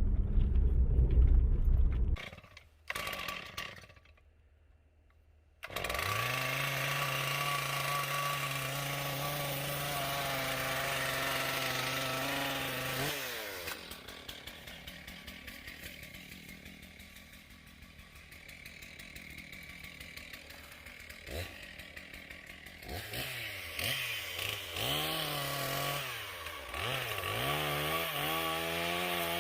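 Gasoline chainsaw running, held at a steady speed for several seconds, then quieter, then revved up and down repeatedly near the end as the throttle is worked. It is preceded by a low truck-cab rumble that cuts off about two seconds in.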